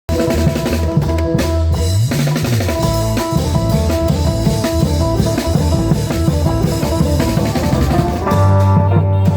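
Band music with a drum kit, bass and electric guitar, starting abruptly out of silence. Near the end a strong, sustained low bass note comes in.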